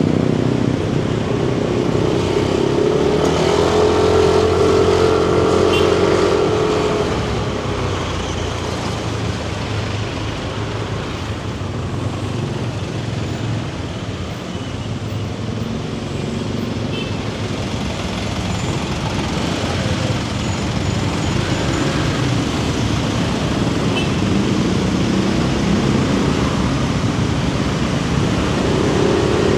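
Yamaha NMAX 155 scooter's single-cylinder engine and belt drive running on the move, with wind and road noise. Its pitch rises as it picks up speed a few seconds in and again near the end, easing off in between.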